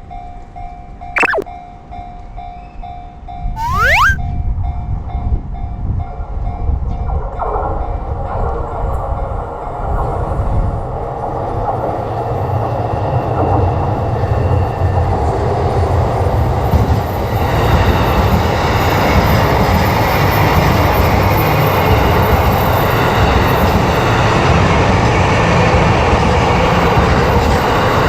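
A train running on rails: its rumble and rail noise come in a few seconds in and build, running steady and loud through the second half. Near the start there are two short sweeping tones and a steady tone that stops about seven seconds in.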